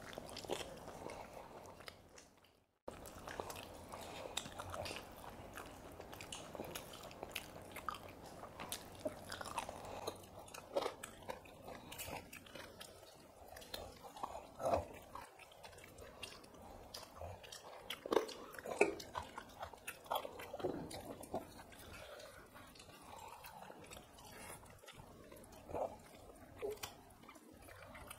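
Two people chewing mouthfuls of rice and chicken curry eaten by hand, with many short wet mouth clicks. The sound cuts out briefly about two and a half seconds in.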